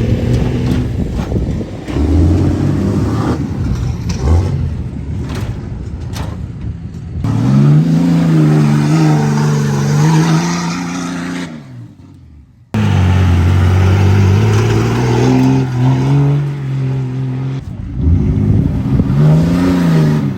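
Cummins turbo-diesel pickup engine revving hard and easing off again and again as the truck is driven over dirt jumps, its pitch climbing and falling in several pulls. A little past halfway the sound drops away sharply, then the engine comes straight back under throttle.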